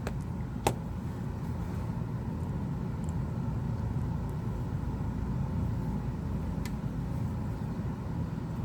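Steady low background rumble, with one sharp click less than a second in and a faint tick near the end.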